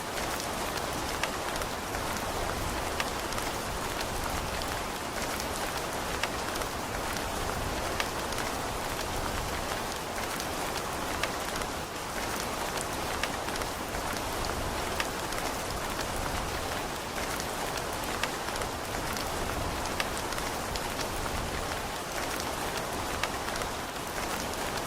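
Steady rain falling, an even hiss with the ticks of separate drops striking surfaces.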